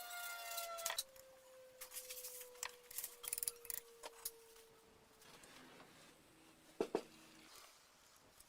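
A small motor's whine, higher for the first second, then lower and falling slowly in pitch over about four seconds, amid light metallic clicks and clinks. Two sharp knocks about seven seconds in.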